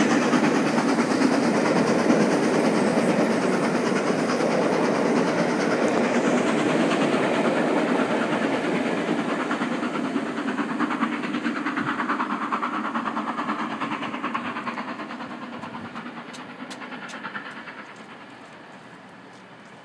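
Steam-hauled passenger train rolling past and away, its coaches' wheels clattering on the track. The sound fades steadily as the train draws off into the distance.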